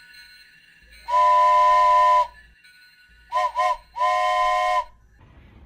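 Steam train whistle sound effect, blowing a steady hissing chord: a long blast, two quick short toots, then another long blast.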